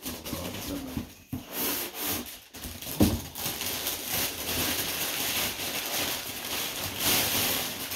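Cardboard and plastic packaging rustling and crinkling as a doll's box is opened by hand, with one sharp click about three seconds in.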